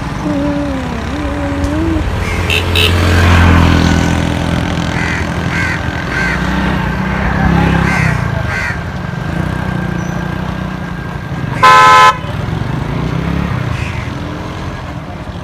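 Road traffic: a vehicle engine running and swelling as it passes, then a loud vehicle horn sounding once for about half a second near the end.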